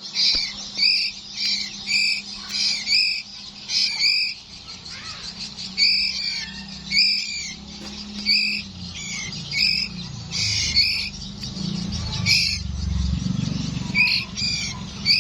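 Nine-day-old Bornean white-rumped shama chicks chirping: short, high, arched calls repeated about once or twice a second, in bunches, over a steady low hum.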